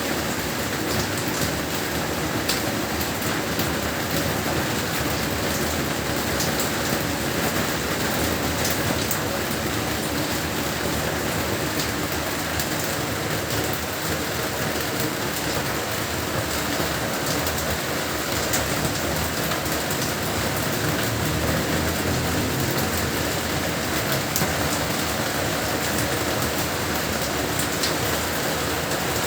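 Heavy rain falling steadily: an even hiss of downpour with scattered sharp drop ticks and a low rumble underneath.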